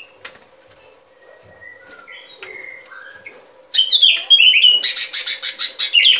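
Bulbuls calling: a few soft whistled notes, then from a little past halfway a loud burst of fast chattering, bubbly calls.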